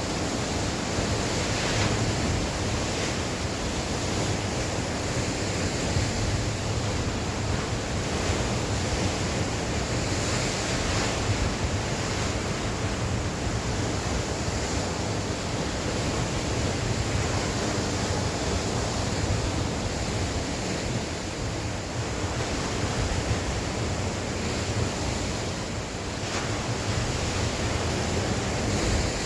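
Sea waves breaking and washing on the shore with steady wind, some of it buffeting the microphone as a low rumble.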